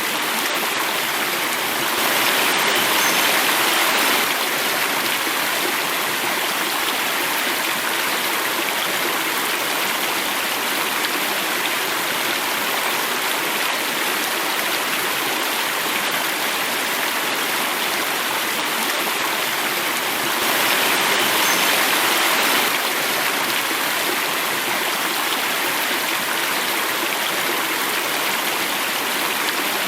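Running water flowing and falling in a small cascade: a steady, even rush that grows louder twice for about two seconds, a couple of seconds in and again about two-thirds through.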